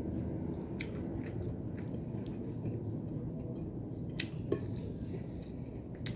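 A person chewing food close to the microphone, with a few sharp wet mouth clicks scattered through, over a steady low background rumble.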